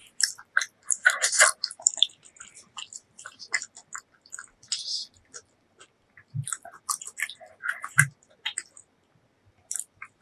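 Close-miked chewing of braised pork leg: irregular wet smacks and small clicks of the mouth, with a couple of short low thumps.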